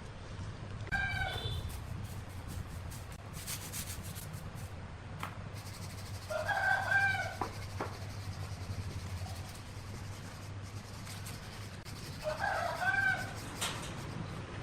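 A rooster crowing three times, roughly every five to six seconds, over a steady low hum.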